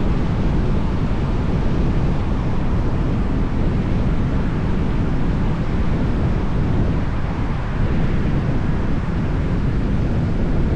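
Wind buffeting the microphone outdoors: a steady rushing rumble, heaviest and fluttering in the low end.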